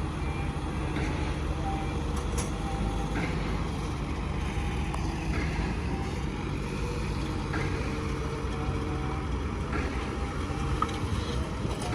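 Heavy diesel construction machinery running steadily, a low engine rumble with faint short tones every second or so.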